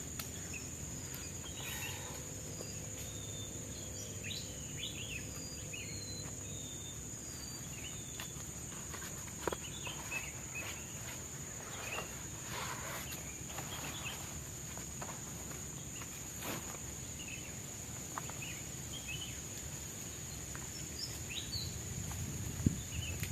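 Tropical forest ambience: a steady high-pitched insect drone with scattered short bird chirps over a low, even rush of the river. A few clicks and louder rustles come in near the end.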